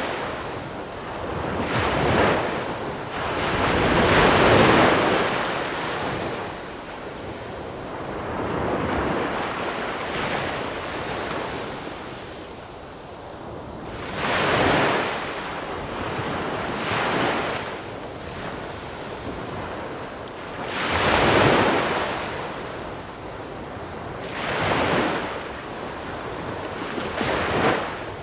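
Small waves breaking on a pebble beach and washing back over the stones, each surge swelling and fading every few seconds, with a calmer lull partway through. Some wind buffets the microphone.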